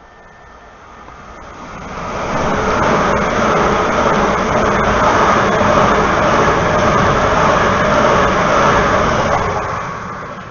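Southeastern electric multiple-unit passenger train running through the station at speed without stopping: wheel-and-rail rushing noise that builds over the first couple of seconds, stays loud for about seven, and fades away near the end.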